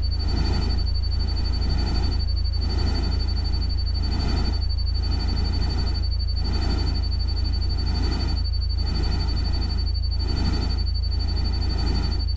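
Layered ambient nature-sound soundscape. A loud steady low rumble lies under a hiss that swells and dips about every second and a bit, with a thin steady high tone above.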